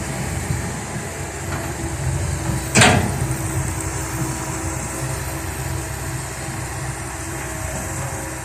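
Heavy diesel earthmoving machinery, excavators and dump trucks, running steadily with a low engine rumble and hum. About three seconds in, one short loud burst stands out above the engines.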